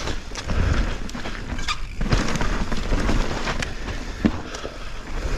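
Mountain bike running down a loose dirt trail: tyres crunching over soft, wood-chippy dirt and roots, with the bike's chain and frame rattling and knocking over bumps, one sharp knock a little past four seconds in. Wind rumble on the helmet camera's microphone.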